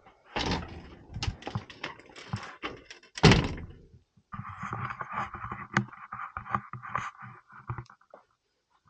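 A run of knocks and thuds, the loudest about three seconds in, then a rattling, rolling noise full of small clicks that lasts about four seconds and stops near the end.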